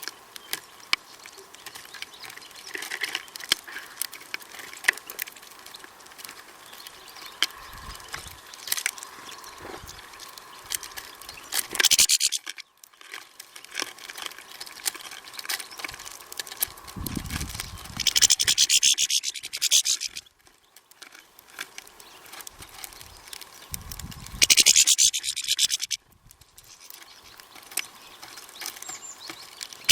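Birds at a feeder: many small pecking taps and clicks, with loud scratching and rustling bursts lasting a second or two, three times.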